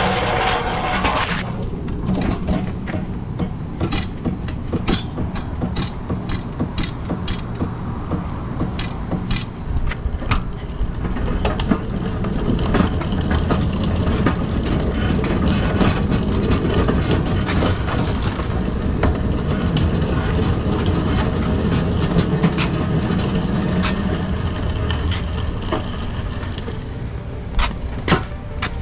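A box truck's engine running with a steady low rumble, overlaid by many sharp rattles and clanks of metal, thickest in the first half.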